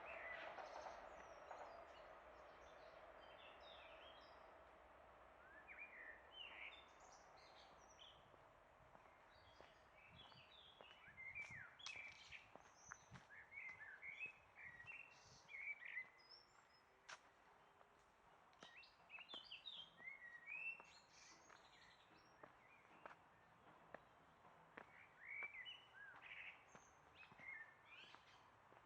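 Faint songbirds chirping and twittering in short, quick phrases, on and off throughout. A low steady hum fades away over the first few seconds.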